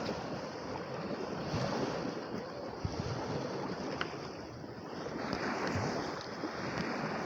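Lake waves washing onto a rocky shore, with strong wind buffeting the microphone. The surf swells up briefly a little past the middle.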